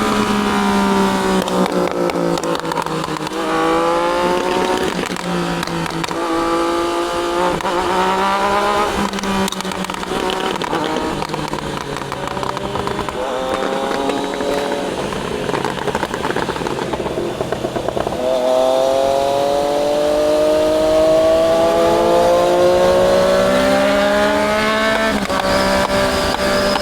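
Triumph Daytona 660's inline three-cylinder engine pulling hard through the gears, revs climbing and dropping back at each upshift several times. It then eases off, and a long climb in one gear from about two-thirds of the way through ends in a shift near the end.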